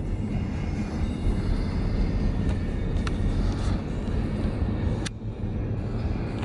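Steady low rumble of a vehicle in motion, with a few sharp clicks about halfway through and near the end.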